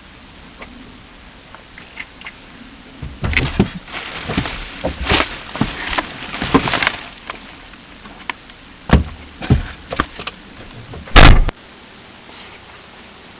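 A run of clattering clicks and knocks, with a few more knocks later and then one heavy thump, the loudest sound, near the end.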